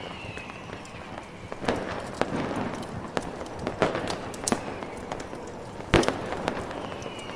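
Fireworks going off in an irregular series of sharp pops and bangs, the loudest about six seconds in, over a steady hiss of snowstorm wind.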